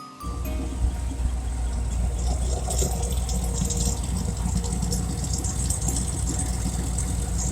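Car engines running at low speed in a classic car drive-by, a steady low rumble that comes in suddenly just after the start.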